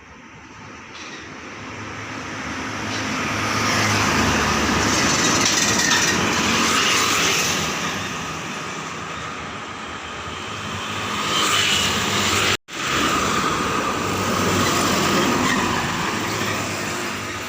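Truck engine and road noise as a heavy truck drives by, building up over the first few seconds. The sound breaks off abruptly about 12 seconds in, and more truck and traffic noise follows straight away.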